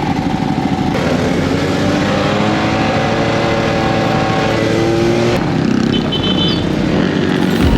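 Small motor scooter engines running on the move, the engine note climbing and then falling with the throttle midway through.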